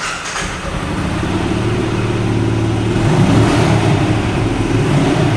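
Benelli Imperiale 400's single-cylinder engine starting suddenly and running through its exhaust, with throttle raised about three seconds in.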